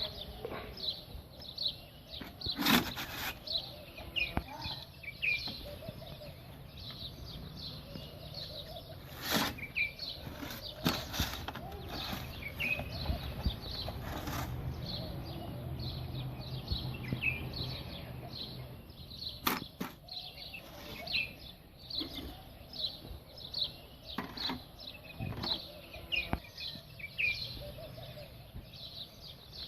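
Small birds chirping over and over in quick short calls, with a few sharp knocks scattered through.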